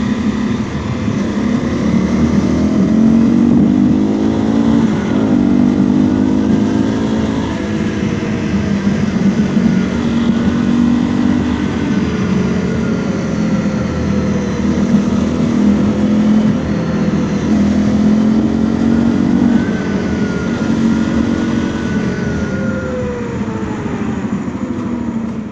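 Honda CRF250L's single-cylinder 250 cc engine riding along, its pitch rising and falling repeatedly as the bike accelerates and eases off. In the last few seconds the pitch drops and the sound fades as the bike slows.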